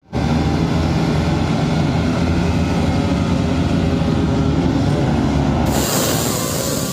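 Motorcycle engine running with a steady low rumble. A hiss comes in suddenly near the end.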